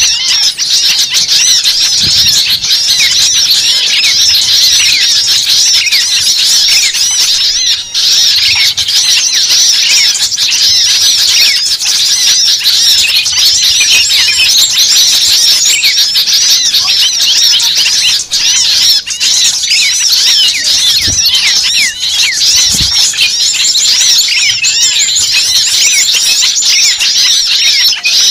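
Dense, continuous chorus of many small birds giving rapid, high-pitched agitated chittering and squeaky calls, a noisy bird-lure recording used to draw small birds in.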